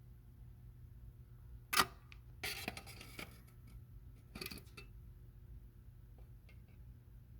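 A low steady hum with a sharp click a little under two seconds in. A short run of clicks and light rattles follows, another cluster comes about four and a half seconds in, and a few faint ticks come near the end.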